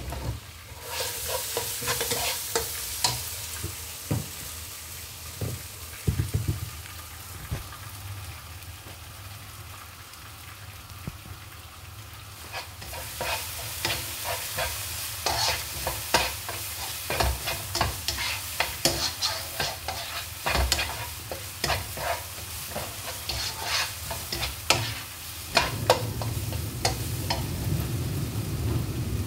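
Red chilli spice paste with lemongrass frying in oil in a large wok, sizzling steadily while a spatula stirs and scrapes it. Quick clicks and scrapes come through the middle, at the stage of frying the paste until fragrant. A low steady rumble comes in near the end.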